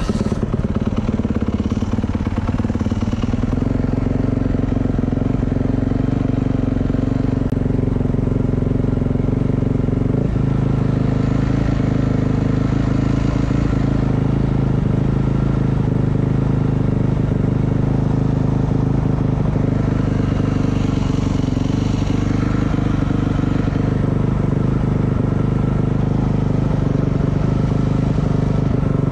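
Motorcycle engine running steadily, its note shifting slightly about ten seconds in.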